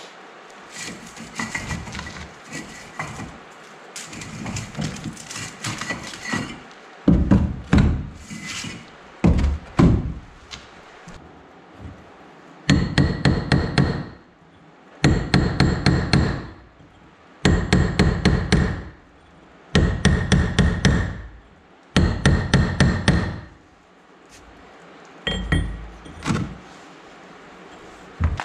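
Hammering: scattered knocks at first, then five quick bursts of rapid blows with short pauses between, each blow ringing slightly.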